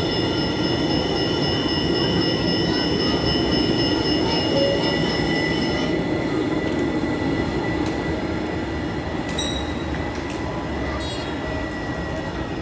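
Tram running on the rails with its wheels squealing: several steady high tones over the rumble of the running gear. Most of the tones stop about halfway and one carries on almost to the end, with a few light clicks near the end as the sound slowly fades.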